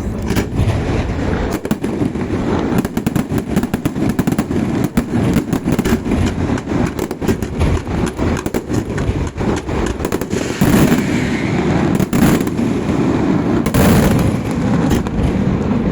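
Festival fireworks going off in a rapid, continuous barrage of bangs and crackles, with a few louder blasts in the second half.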